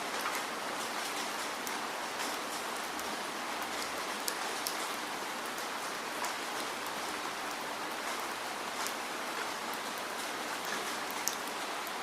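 Steady rainfall: an even hiss of rain with many single drops ticking sharply on a surface.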